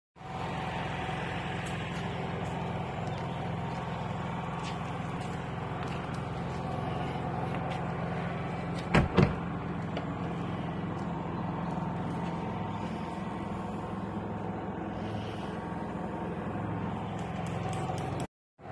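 A motor running steadily with a low hum, with two sharp clicks about halfway through.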